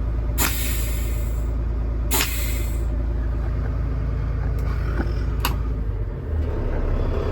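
The Kenworth T370's PACCAR PX-8 inline-six diesel idling with a steady low rumble, with two short hisses of air released from the truck's air system in the first three seconds and a few clicks later on.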